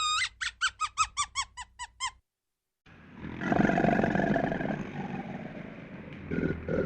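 A rapid string of about nine short, high-pitched squeaky animal calls, four or five a second, stopping abruptly. After a short silence, about three seconds in, a deeper, rough animal vocalization starts and carries on.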